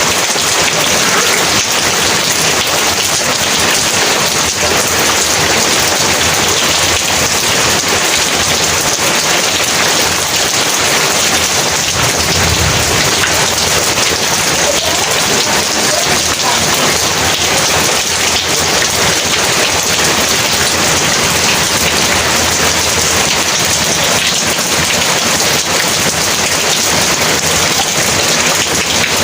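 Heavy rain falling steadily, with a brief low rumble of thunder about halfway through.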